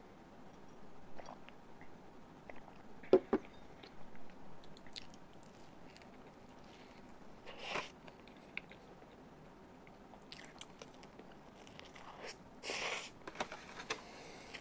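Quiet close-up eating sounds of durian cheesecake being chewed and swallowed, with scattered small clicks. A sharp knock about three seconds in is the loudest sound, and there is a short noisy burst near the end.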